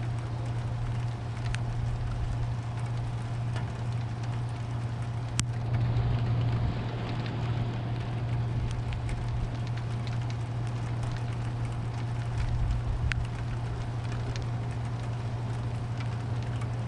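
Steady rain falling, with scattered sharp drips. A low rumble of distant thunder swells about six seconds in and again around twelve seconds, over a steady low hum.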